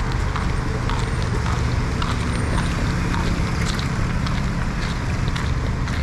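Street ambience: a steady low rumble of traffic under a noisy haze, with scattered short clicks and taps.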